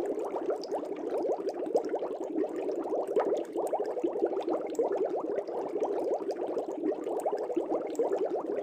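Air bubbles from an aquarium aerator rising and breaking at the water's surface in a fish tank: a continuous, dense stream of small bubbling pops.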